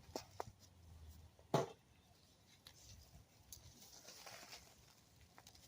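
Faint rustling and scraping of digging through loose potting soil in a container during a potato harvest, with a few light clicks and one sharper knock about a second and a half in.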